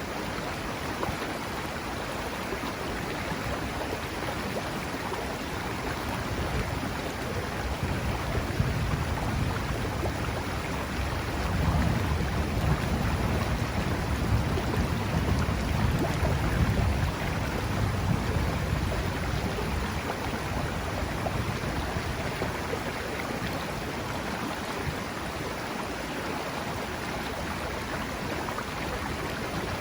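River water rushing steadily, with a long low rumble of distant thunder that swells about a third of the way in, peaks around the middle and dies away.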